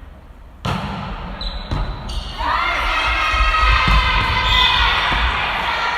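Volleyball thumps in a gymnasium hall: a few sharp hits of the ball, starting with a sudden one about two-thirds of a second in. From about two seconds in, a long drawn-out pitched call that rises at its start runs over them for about three seconds.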